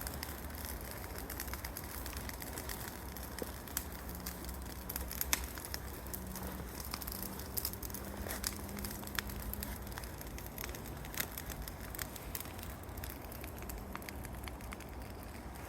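Burning pile of cut blackberry vines and yard debris crackling, with irregular sharp pops and snaps over a steady low rush of the fire.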